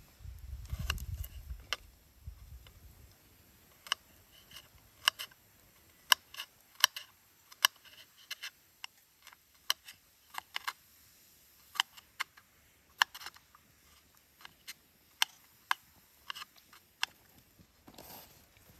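A series of irregular sharp clicks and taps, with a low rumble during the first two or three seconds.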